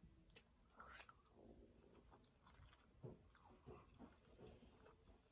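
Faint chewing of a mouthful of Thai noodles with the mouth closed: soft, irregular wet mouth clicks and squelches.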